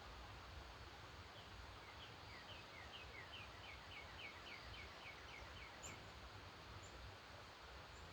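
A distant songbird singing a faint series of short, down-slurred whistled notes, about four a second for some four seconds, with a few thin high calls near the end, over a steady outdoor hiss.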